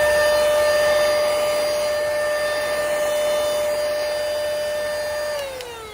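Airmoto handheld car vacuum cleaner running with a steady high motor whine and rushing air, then switched off about five seconds in, its whine falling in pitch as the motor spins down.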